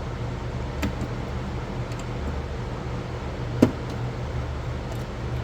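Plastic of a pool cleaner's bag chute being trimmed, heard as a few sharp clicks, one loud one a little past halfway, over a steady low hum.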